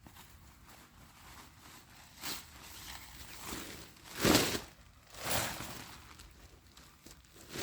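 Rustling crunches in dry leaves and twigs on the forest floor, coming irregularly about five times, the loudest about four seconds in.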